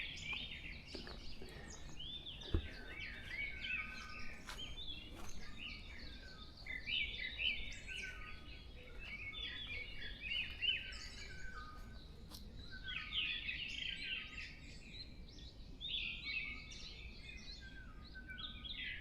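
A chorus of many songbirds in the distance: short chirps and trills from several birds overlapping continuously. A single brief low thump comes about two and a half seconds in.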